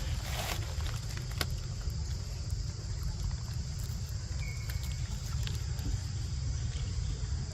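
Outdoor forest ambience: a steady high-pitched insect drone over a low rumble, with a few faint clicks and one short high note about halfway through.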